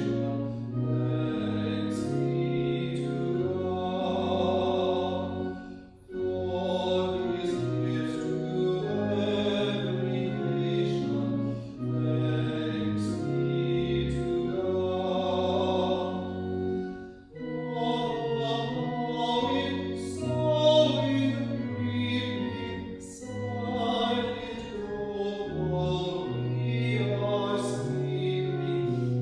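Church music: voices singing with accompaniment, long held notes in phrases broken by short pauses.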